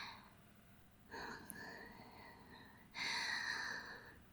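A woman's breathy, wordless vocal sounds: a faint drawn-out whimper about a second in, then a louder breathy gasp about three seconds in.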